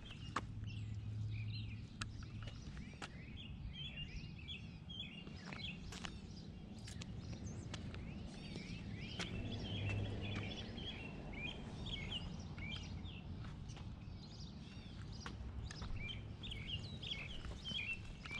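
Several birds chirping and singing at once, quick short calls overlapping. Beneath them come a few light footsteps on pavement and a low steady hum.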